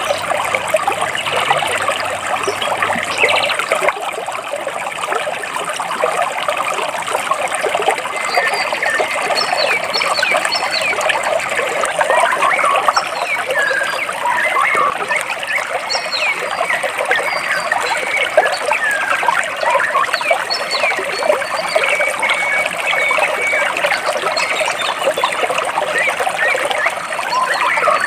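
Water trickling and gurgling steadily between rocks, with small birds chirping now and then above it.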